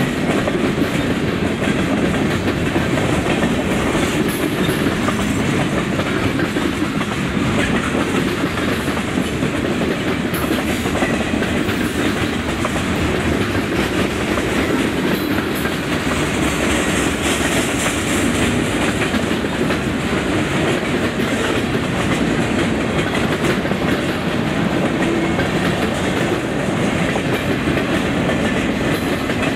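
Train cars rolling past at steady speed, a continuous rumble of steel wheels on rail with clicks as the wheels cross rail joints.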